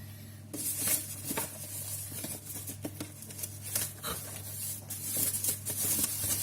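Box packaging being opened and handled: irregular rustling, crinkling and clicking of cardboard and wrapping, starting about half a second in, over a low steady hum.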